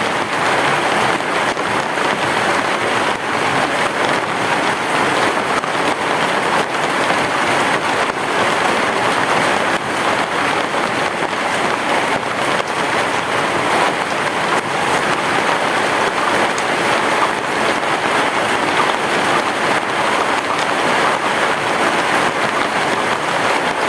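Heavy rain falling steadily on a roof, a dense even hiss of drops with no break.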